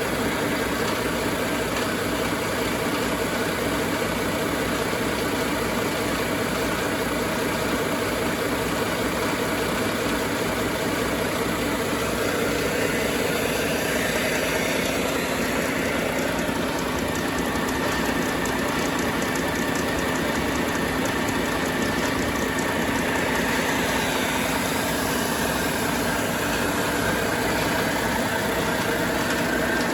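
Volvo D13 inline-six diesel engine running steadily at idle. About halfway through, a higher whine rises and then holds at a steady pitch.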